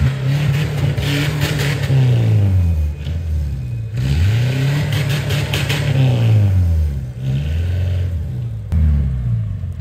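A 4x4's engine revving up and easing off several times in long swells as it is driven over rough ground. Bursts of hiss come with the high revs.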